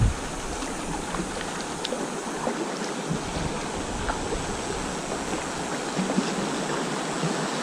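River water running fast and shallow over rocks: a steady rush with small splashes and ticks, heard from a kayak in a riffle.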